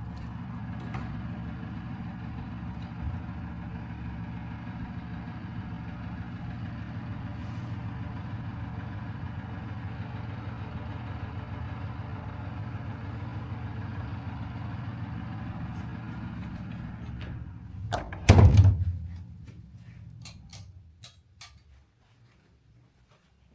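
Steady low mechanical hum that stops about three-quarters of the way through, followed at once by a single loud thump, then a few faint clicks.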